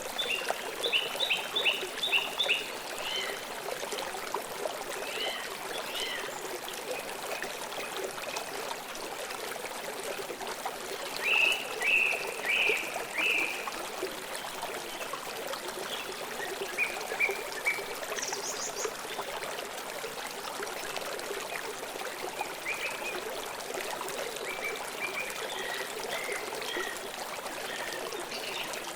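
River water flowing steadily with a constant rushing hiss. Songbirds call over it in short series of chirps, a run of about six notes near the start and a louder burst of notes about 11 to 13 seconds in, with scattered higher calls later.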